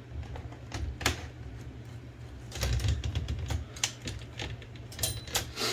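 Irregular small metal clicks and clacks from an Olivetti Linea 98 typewriter's carriage as its bearings and rail parts are worked into place by hand, with a denser run of louder knocks in the middle and a few more near the end.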